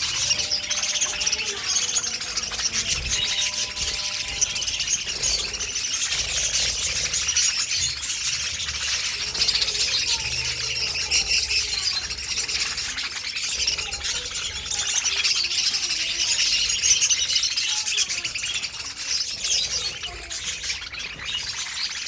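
Budgerigars chirping and chattering without a break, many birds calling over one another.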